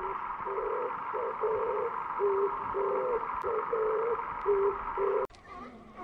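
A run of about ten short, low, hoot-like animal calls over a steady hiss, cut off abruptly about five seconds in, after which higher calls glide up and down in pitch.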